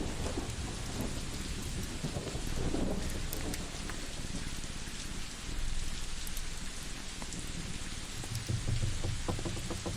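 Layered cabin ambience: a steady rain hiss with scattered sharp fireplace crackles, over a low rumble that swells about two to three seconds in and again near the end.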